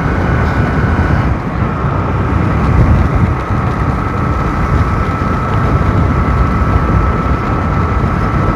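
Motorcycle riding along: steady engine and road rumble with wind on the microphone. A whining tone steps down slightly in pitch about a second in.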